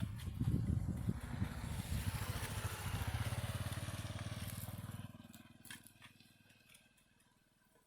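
A small engine running with a pulsing low throb, fading away about five seconds in.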